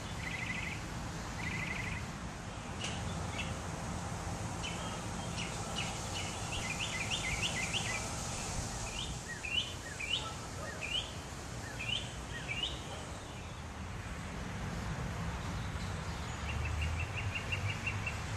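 Songbirds calling: two short trills near the start, then a long run of quick sweeping chirps, and a fast trill near the end, over a steady low background noise.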